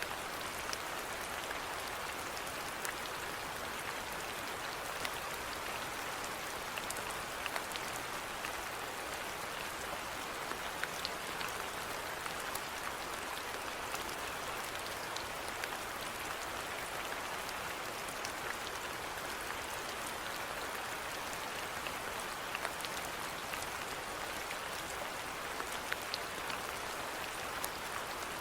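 Steady rainfall with individual drops pattering and ticking on a surface.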